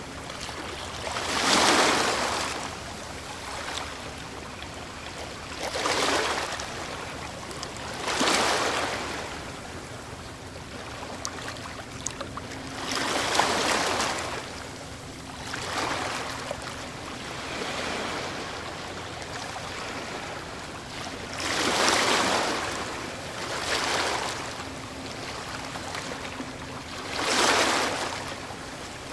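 Ocean waves breaking in surf, about eight surges that each swell and wash back over a steady hiss. Five of them break louder than the rest.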